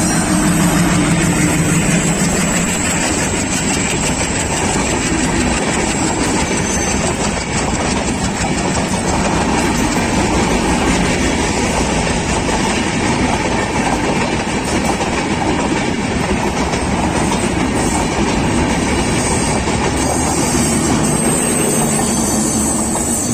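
Express passenger train of LHB coaches running on broad-gauge track: a steady, loud rumble and clatter of wheels on the rails. A low diesel-engine hum fades out in the first couple of seconds.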